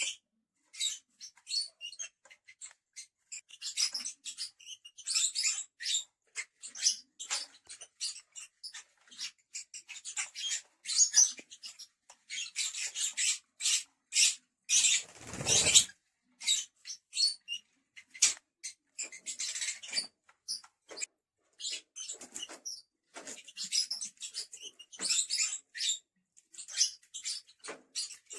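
Lovebirds chirping and chattering in short, high-pitched calls on and off, with a brief, louder rustle about halfway through.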